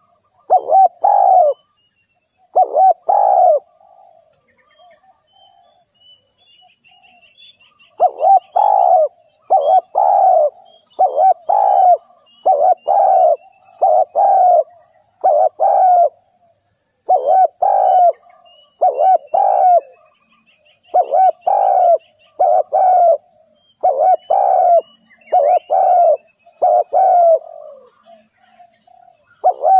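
Spotted dove cooing: short phrases of two or three low coos, repeated every second or two, with a pause of a few seconds near the start. This is the decoy call used to lure wild spotted doves.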